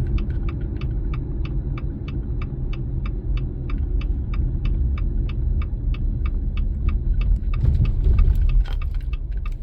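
Car engine and road rumble heard inside a moving vehicle, with a turn-signal indicator ticking steadily about four times a second until about three-quarters of the way through.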